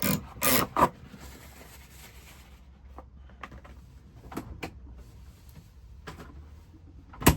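Handling noises while a sandwich is made: several loud clicks and knocks at the start, a couple of seconds of rustling, scattered small clicks and one sharp click near the end, over a steady low rumble of highway traffic.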